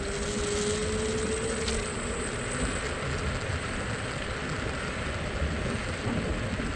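Street traffic heard from a moving scooter: a steady rumble of engines and tyres with wind noise, and a faint whine that rises slightly in pitch over the first two seconds.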